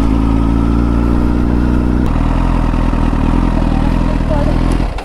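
Honda Fireblade's inline-four engine running at steady revs on the move, its note changing about two seconds in; the sound cuts off abruptly near the end.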